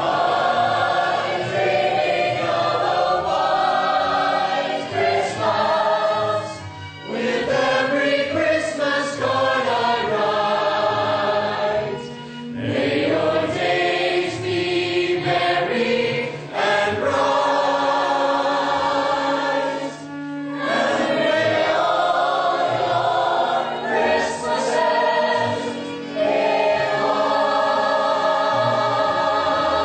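A choir singing in long, held phrases, with short breaks between them.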